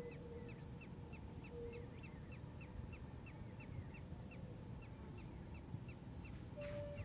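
A bird calling in a steady run of short rising chirps, about three or four a second, over a low rumbling noise. A single sharp click near the end.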